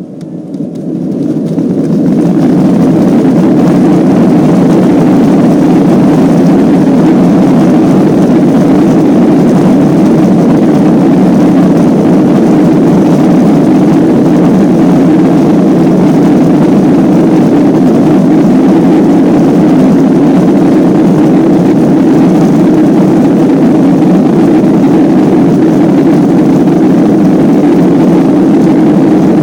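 Boeing 737 jet engines spooling up to takeoff thrust over the first two seconds, then running at full takeoff power as a loud, steady low noise.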